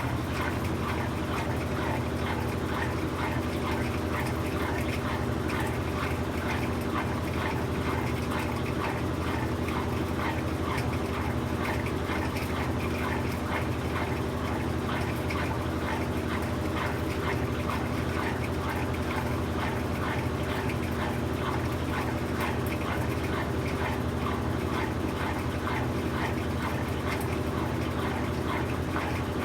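Brastemp BWK17 17 kg washing machine running with a steady hum and low drone. Many short, high squeaks or chirps repeat throughout.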